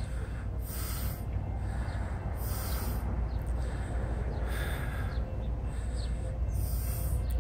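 Low, steady rumble of a distant approaching freight train led by two Union Pacific diesel locomotives. A short hiss recurs about every two seconds.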